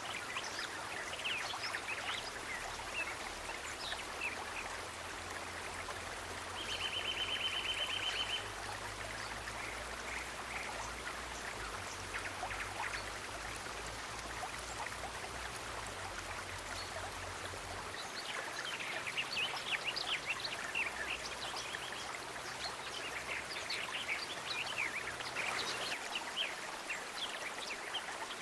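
Stream water running steadily, with many short high chirps that grow thickest in the second half. There is a brief buzzy trill about seven seconds in, and a faint low hum that stops about eighteen seconds in.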